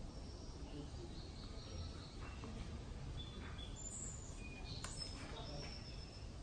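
Steady outdoor background noise with scattered short, high chirps of small birds, and a single sharp click about five seconds in.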